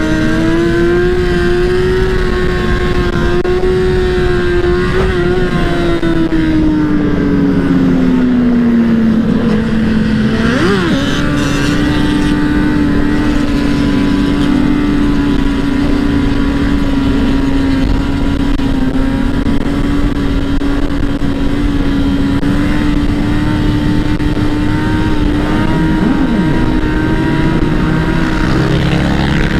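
Dirt bike engine running at a steady cruise. Its pitch eases down a little about a third of the way in, picks back up about ten seconds in, and then holds steady.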